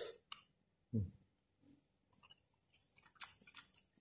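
A person chewing a piece of papaya dipped in thick rujak sauce, with soft wet mouth clicks and small crunches, most of them near the end. There is a brief low sound about a second in.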